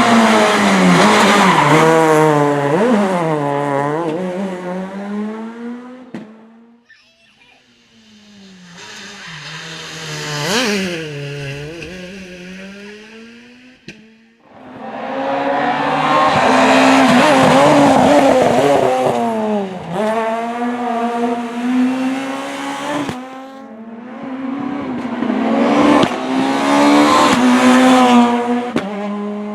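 Rally cars passing at speed one after another, their engines revving up and falling away through gear changes and braking. Four passes follow one another, the first two fading out and the last two loud.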